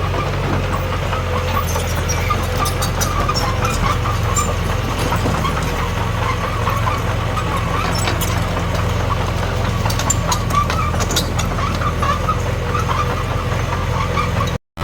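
Komatsu D21P bulldozer's diesel engine running steadily under work, with scattered sharp metallic clicks and clanks. The sound cuts out for a moment near the end.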